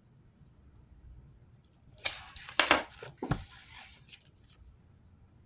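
A deck of cards being shuffled: about two seconds of quick rough riffling with a few sharp snaps, starting about two seconds in.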